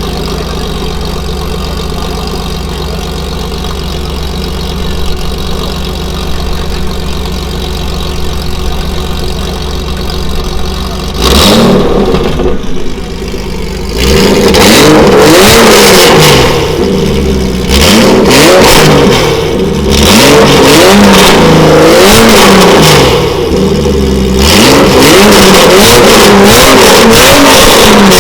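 Porsche 993 Carrera's air-cooled flat-six idling steadily, then revved: a short blip about eleven seconds in, followed by several loud revs in a row with the pitch rising and falling.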